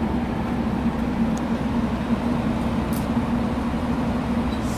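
A JR Kyushu 883 series 'Sonic' electric train standing at the platform, its on-board equipment giving a steady, even hum.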